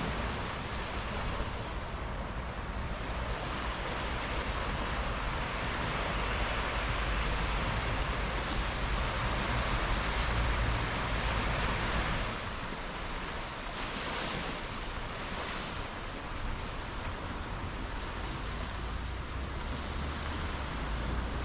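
Sea waves washing onto the shore, one swell building and then easing about halfway through, with wind rumbling on the microphone.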